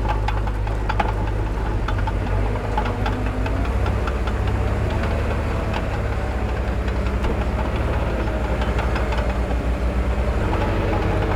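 Heavy diesel engine of earthmoving machinery running steadily with a low throb, with a few short clanks.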